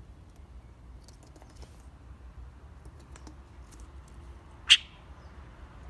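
Budgerigar giving a single short, sharp chirp near the end, after several seconds of faint scattered clicks and ticks.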